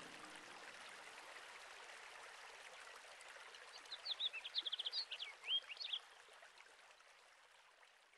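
Faint steady rush of flowing water, with a songbird's short run of chirps about four seconds in; the last notes of music die away in the first second and the water fades out near the end.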